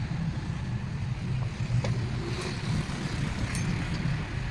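Steady low mechanical drone, like an engine running, with a few light clicks.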